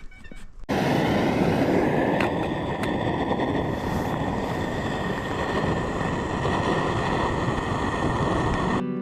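Camp stove burner running at full flame, a steady loud rushing noise with a faint high whine, starting abruptly about a second in.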